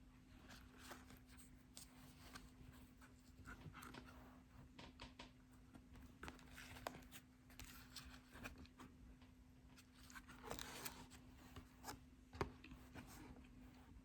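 Near silence with faint scattered clicks and rustles of handling, over a steady low hum.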